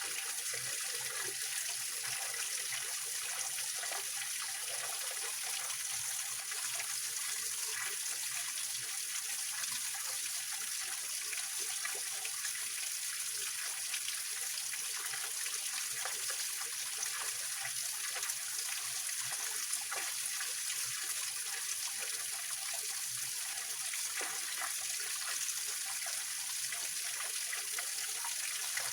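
Small waterfall on a rocky mountain stream: water splashing and trickling over stones in a steady, hissing rush with little low end.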